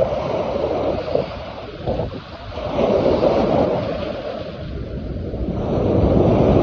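Hudson River water washing and splashing against the shore in slow swells that rise and ease every couple of seconds, with wind buffeting the microphone.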